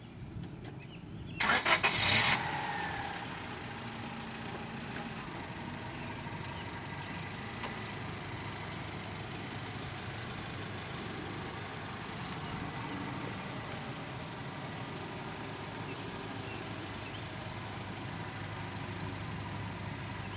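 Car engine starting with a brief loud burst about a second and a half in, then running steadily.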